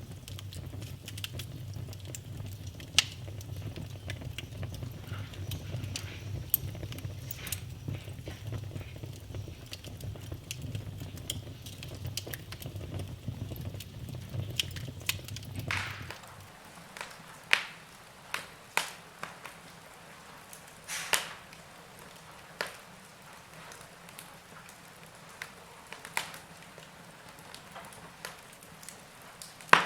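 Wood fire crackling and popping in a fireplace. A low rumble under the crackle stops about halfway through, leaving sparser, sharper pops of burning firewood.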